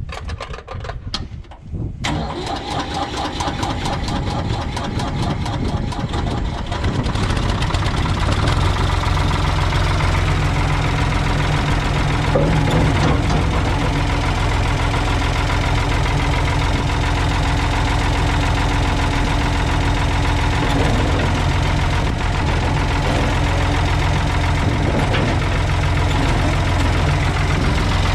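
Ford backhoe tractor's engine being started: a few short clicks, then it catches about two seconds in, runs up and settles into a steady idle.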